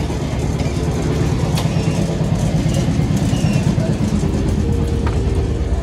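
Steady low rumble of a passenger train coach running on the track, heard from inside the coach, with a few faint clicks.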